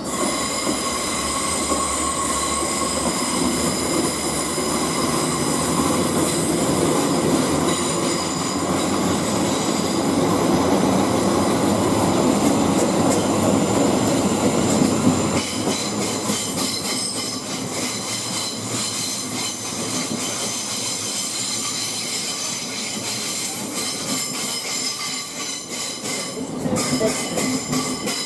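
Passenger train moving along a station platform: a continuous rumble of wheels on rail with a steady high whine over it. The low rumble drops away about halfway through while the whine carries on.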